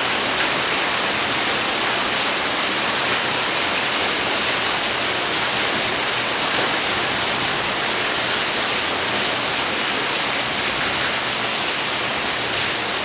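Rain falling steadily: a dense, even hiss with faint scattered drop ticks.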